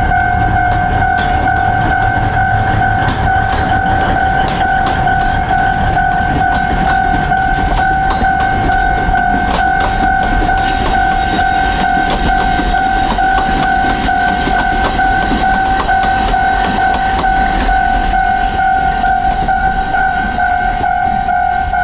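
Alishan Forest Railway train running past, rumbling with many rattling clicks, with a steady high tone held unchanged throughout.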